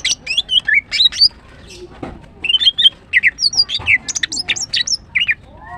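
Female greater green leafbird (Chloropsis sonnerati) chirping in rapid runs of short, sweeping whistled notes. One burst comes in the first second, and a longer, denser run follows after a brief pause.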